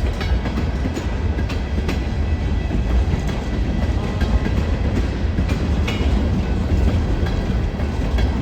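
Train rolling past close by: a steady heavy rumble of railcars, with the wheels clicking irregularly over rail joints.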